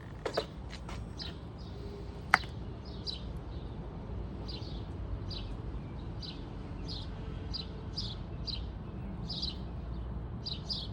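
A small bird chirping over and over, about two short chirps a second, over a steady low rumble. A single sharp click about two seconds in.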